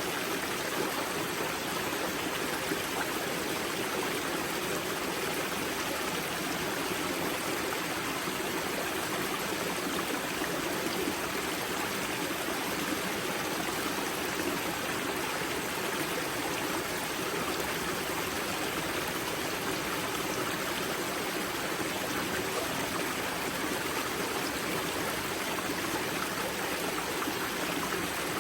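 Grza river flowing out of its spring: a steady, even rush of water over rocks.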